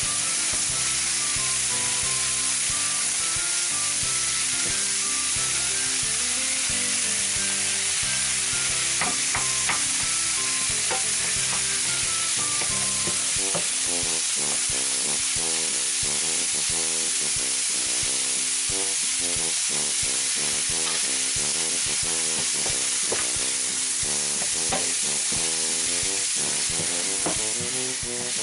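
Butter and sugar sizzling with slivered almonds in a hot frying pan, a steady hiss, while a wooden spatula stirs and scrapes the pan.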